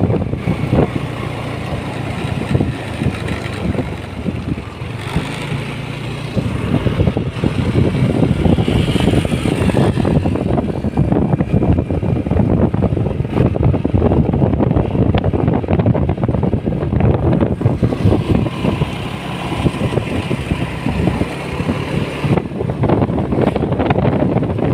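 A motorcycle riding along, with a steady, loud mix of engine noise and wind rumbling on the microphone.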